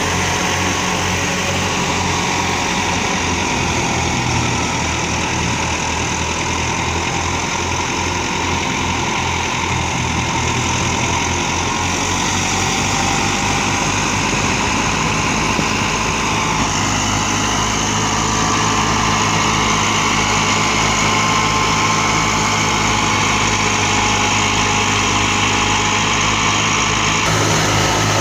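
Tractor diesel engines running steadily under load, driving a threshing machine, with the thresher's dense whirr over the engines' low beat. The sound picks up a little about two-thirds of the way through.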